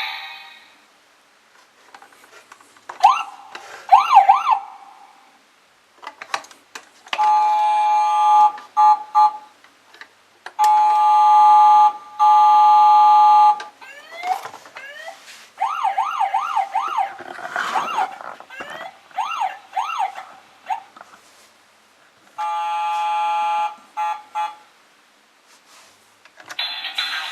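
Battery-powered toy police car's electronic siren sounds, set off in separate short bursts. There are quick rising-and-falling wails and steady buzzy tones lasting one to three seconds, with pauses between.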